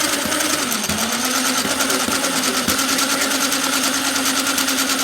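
Cordless drill motor running steadily, driving a beater through cream as it churns into butter; its whine dips briefly about a second in, then holds steady.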